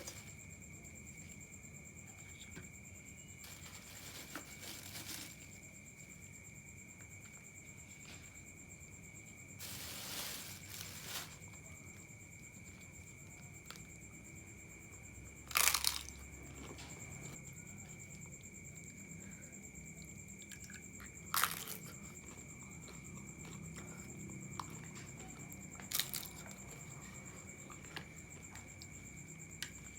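Close-miked eating of chicken noodles: chewing, with a handful of short, sharp noises every few seconds over a steady high-pitched tone.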